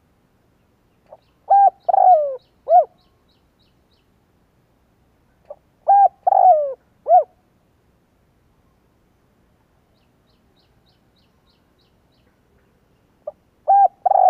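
Spotted dove cooing in its territorial call: three phrases about five seconds apart. Each is a few short coos and a longer note that slides down, and the third phrase starts near the end. Faint high chirps of a small bird come in between.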